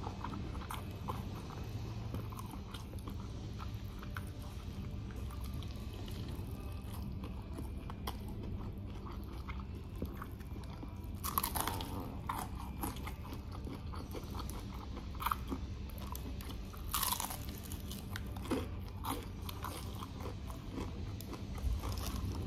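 Close-miked eating: biting, crunching and chewing crispy food, with many small crackles and two louder crunchy bites about 11 and 17 seconds in. A steady low hum runs underneath.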